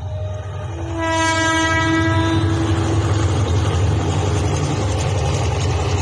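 Freight train passing close, its diesel locomotive sounding one long horn blast about a second in over the rising heavy rumble of the engine and wagons.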